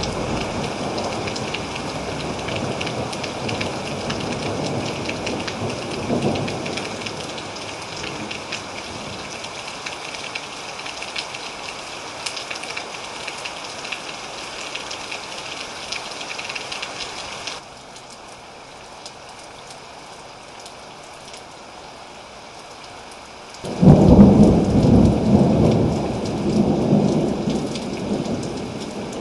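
Thunderstorm: steady rain with rolling thunder. A rumble fades out at the start, the rain drops quieter about two-thirds of the way through, then a sudden loud peal of thunder breaks near the end and rumbles away.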